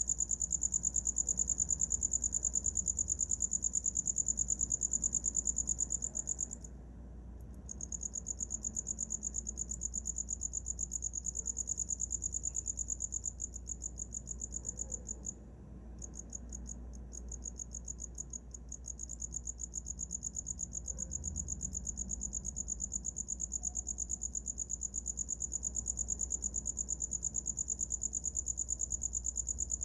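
A cricket singing: a continuous high-pitched, rapidly pulsed trill. It breaks off briefly twice, about seven and fifteen seconds in, and comes back stuttering before it settles into a steady trill again.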